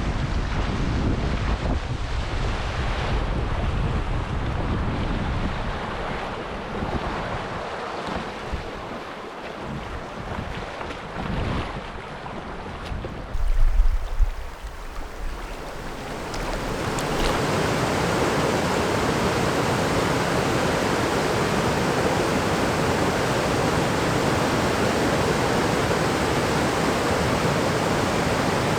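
Wind buffeting the microphone over moving river water, with a low thump about 14 seconds in. About 17 seconds in, a steady, even rush of whitewater rapids takes over.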